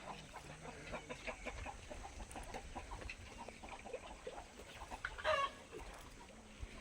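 A flock of chickens clucking, many short calls overlapping, with one louder call about five seconds in.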